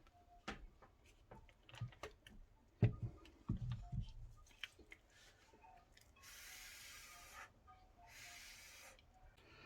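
Quiet handling noise: scattered light knocks and taps, a few soft low thumps, then two soft hisses each about a second long.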